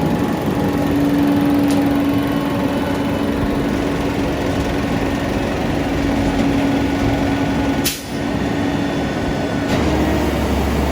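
Peterbilt garbage truck with a Heil body running, with a steady drone over the engine noise. A sharp click comes about eight seconds in.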